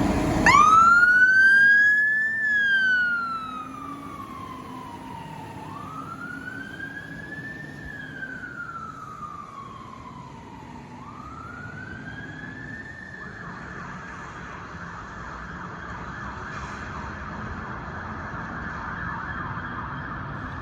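Emergency vehicle two-tone electronic siren on a slow wail, each sweep rising quickly then falling slowly, switching to a fast yelp about two-thirds of the way in. It is loud for its first few seconds as the vehicle passes close, then much quieter as it moves away.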